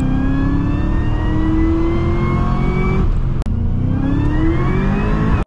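The 2009 Cadillac CTS-V's supercharged 6.2-litre LSA V8, heard from inside the cabin, pulling hard under acceleration with its note climbing steadily. About three and a half seconds in, the sound breaks off for an instant, then climbs again from a lower pitch.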